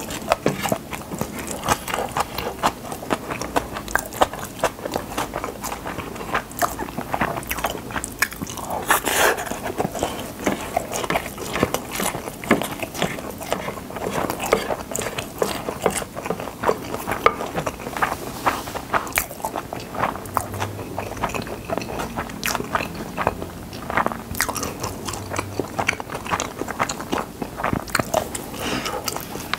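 Close-miked chewing of Spam kimchi fried rice, a steady run of small mouth clicks and crunches, with a plastic spoon scraping rice together on the plate.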